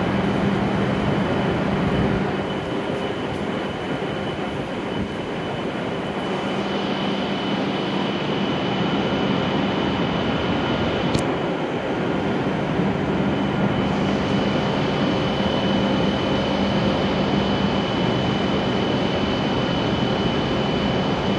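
A W7-series Hokuriku Shinkansen train standing at the platform, its onboard equipment running with a steady rush and a thin high whine.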